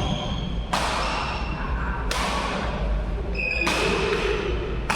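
Badminton rally: rackets strike the shuttlecock four times, about a second and a half apart, each hit ringing on in the hall, with shoes squeaking on the court floor.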